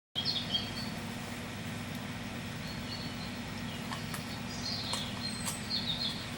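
Small birds chirping in short high calls, several times, over a steady low background noise of outdoor ambience.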